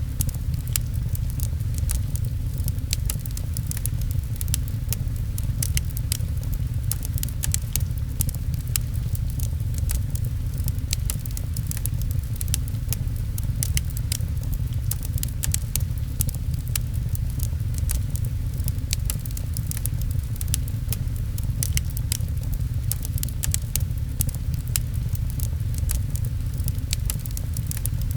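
Wood fire crackling in a fireplace, with frequent irregular sharp pops and snaps over a steady deep rumble of rain.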